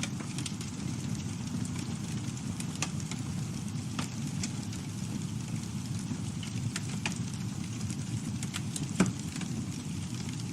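Campfire burning: a steady low rumble of flames with scattered crackles and pops of burning wood, one sharper pop about nine seconds in.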